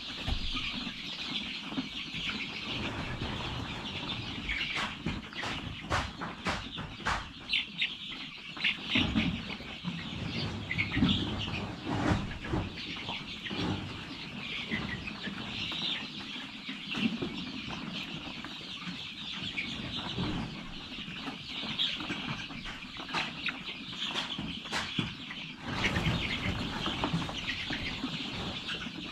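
A flock of five-week-old chickens cheeping and clucking together in a continuous, busy chorus, with scattered sharp taps and some wing flapping among them.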